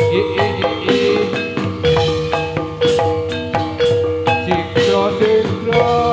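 Gamelan music accompanying a gedruk dance: struck metal keyed instruments play a fast, busy melody over drum strokes, with one note ringing on near the middle.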